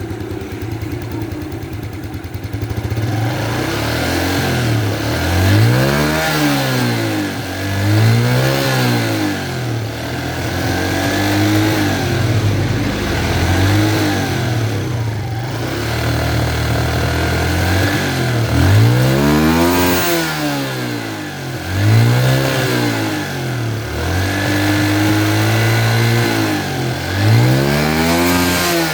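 Fuel-injected motorcycle engine idling, then revved up and let fall back again and again, about a dozen throttle blips at uneven intervals.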